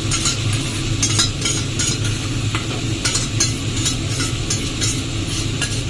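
Marinated chicken and masala frying in oil in a pan, sizzling, while a spatula scrapes and knocks against the pan in irregular short strokes as it is stirred. A steady low hum runs underneath.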